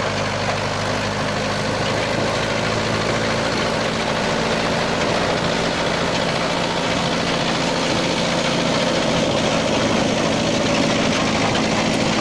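Mahindra tractor's diesel engine running steadily under load, driving a spading machine working the soil.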